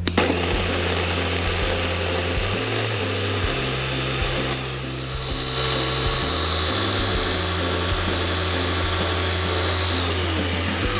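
Electric mini food chopper running, its blades grinding a spice paste of chillies, shallots, garlic and spice roots with a little oil. It starts abruptly, dips briefly about halfway through, and its whine falls in pitch as it stops near the end.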